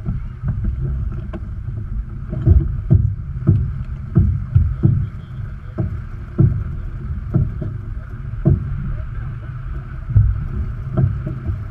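Sailboat under way: a steady rush of wind and water, broken by irregular thumps of waves hitting the hull, roughly one a second.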